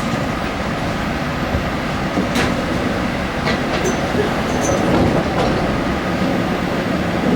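Steady rumble of an MBTA Red Line subway car running along the track, heard from inside the car, with a few sharp clicks about two to five seconds in.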